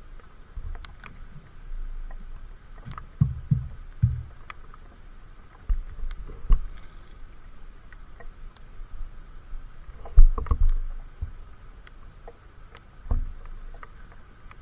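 Wind buffeting the microphone in the rain, with irregular low thumps, scattered raindrop ticks, and a faint steady hum in the background.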